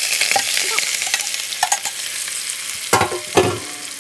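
Collard greens frying in hot bacon grease in a pan: a loud, steady sizzle with scattered crackles, and two louder knocks about three seconds in.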